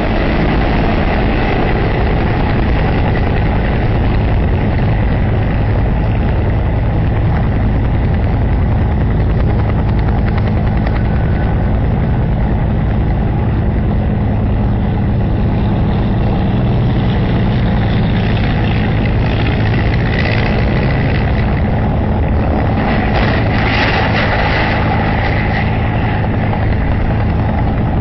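Helicopter running steadily close by, a loud, constant low drone from its rotor and engine. A brighter hiss swells for several seconds in the second half.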